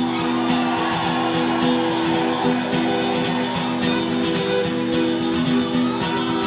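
Live folk-rock band playing an instrumental passage: strummed guitar over steadily held chords, with regular cymbal strokes keeping the beat.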